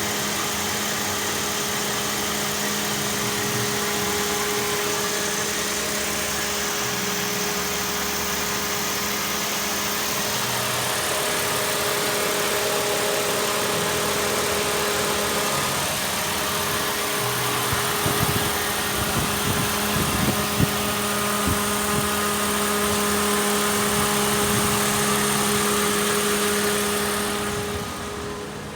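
Holden Commodore 3.8-litre V6 engine with 241,051 km on it, idling steadily at a constant speed. A few sharp clicks come about 18 to 21 seconds in, and the sound drops away near the end.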